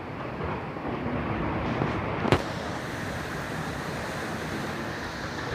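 Steady rushing of the Tons River in flood, swollen well above its danger mark, with one sharp click a little over two seconds in.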